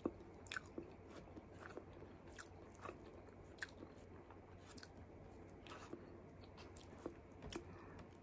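Close-miked mouth sounds of a person chewing a mouthful of rice and string beans: faint, with irregular small clicks and smacks.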